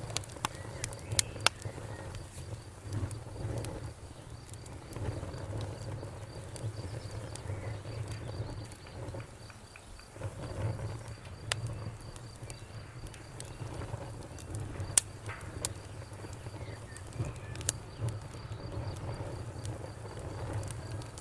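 Wood fire crackling and popping in a fireplace, with sharp pops now and then, the loudest about fifteen seconds in, over a low steady rumble of flame. Crickets chirp steadily throughout in a high, even pulse.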